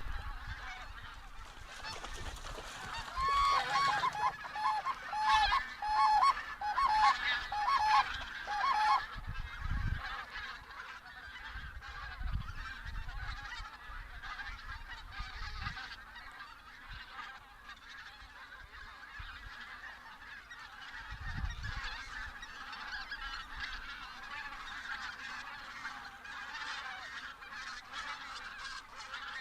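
A flock of geese honking: a quick run of loud, repeated honks between about three and nine seconds in, then a steady din of fainter calls from many birds. A few brief low thumps are mixed in.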